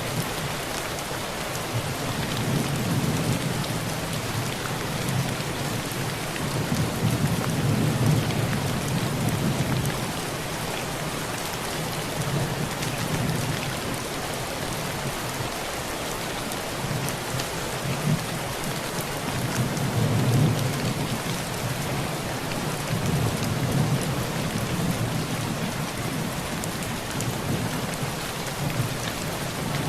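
Heavy rain drumming steadily on a tin roof, with low rolls of thunder that swell and fade several times, the strongest about a third of the way in and again past the middle.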